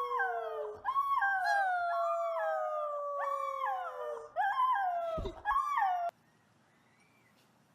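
Dogs howling together in long, overlapping howls whose pitch slides slowly downward, broken by short higher yodel-like rises. The howling cuts off suddenly about six seconds in.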